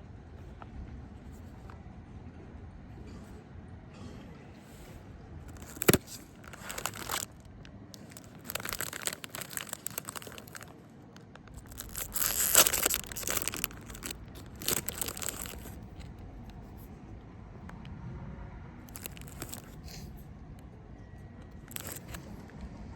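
A plastic food wrapper being torn open and crinkled in several bursts, with a sharp click about six seconds in.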